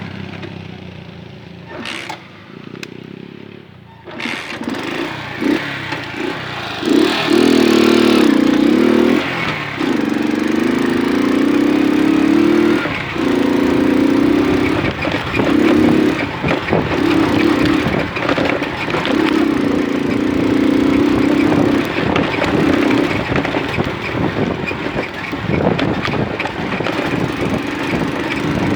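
Small moped engine, quiet at first, then loud about four seconds in. It runs with its pitch rising and falling as the throttle is opened and eased off again and again.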